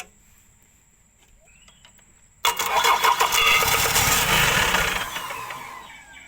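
Isuzu dump truck's diesel engine being started after repair work. It comes in suddenly about two and a half seconds in, is loud for a couple of seconds, then winds down with a falling whine.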